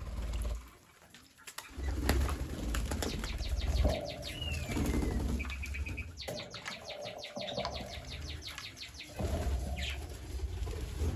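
Several birds calling, with fast runs of chattering clicks in the middle and a short falling whistle, over a strong low rumble on the microphone.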